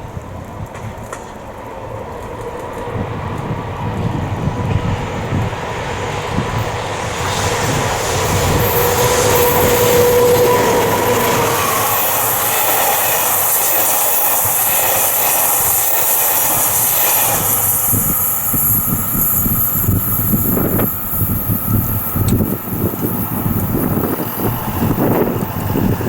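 Train passing close by: a locomotive hauling a rake of unpowered new diesel railcars, growing louder over the first several seconds with a steady whine about ten seconds in, then wheels clacking rhythmically over the rail joints as the cars roll past.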